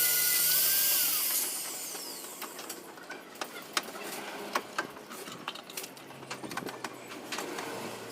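A power tool running with a steady whine that winds down about a second and a half in, followed by scattered clicks and knocks.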